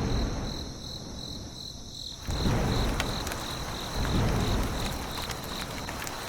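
Crickets chirping in an even, pulsing trill, over a low rumbling noise that grows louder about two seconds in.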